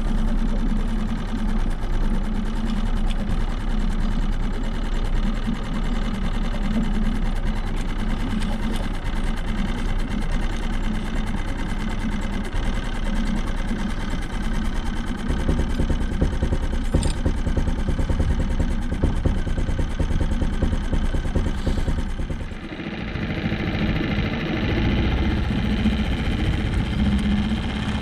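A small engine running steadily, its tone shifting briefly about 23 seconds in.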